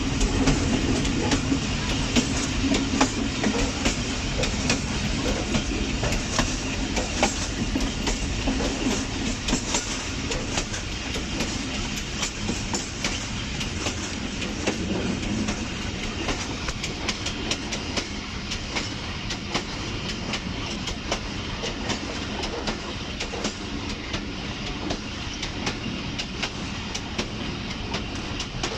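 Passenger train running at speed: the wheels click repeatedly over rail joints above a steady rush of running noise, heard from the rear of the train.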